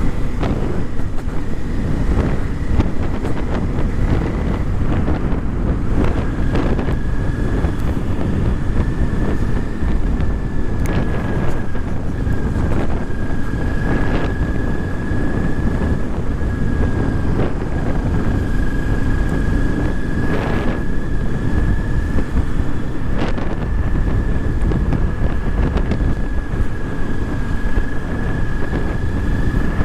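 Motorcycle riding at speed: wind rushing over the microphone over the engine and road noise. A faint steady high whine runs over it, dropping slightly in pitch about six seconds in.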